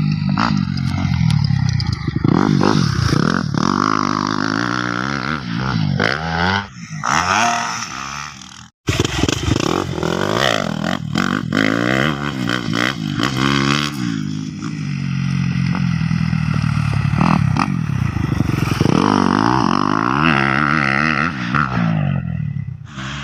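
Kawasaki KX250F motocross bike's four-stroke single-cylinder engine being warmed up, revved again and again with the pitch rising and falling between blips. It cuts out briefly about nine seconds in, then carries on revving.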